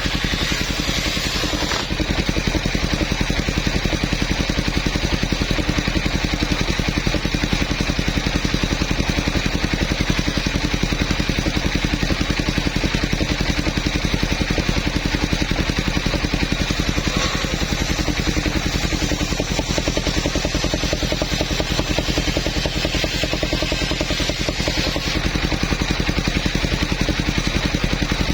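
Portable sawmill's engine running steadily with an even, rapid chugging beat.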